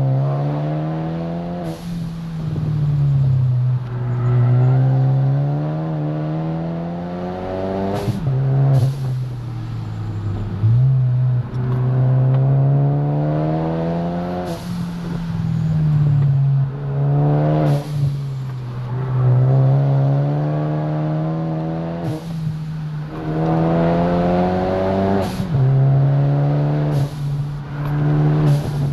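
Car engine heard from inside the cabin, revving up and dropping back again and again as the car accelerates and lifts off. Its pitch climbs steadily, then falls suddenly at several gear changes.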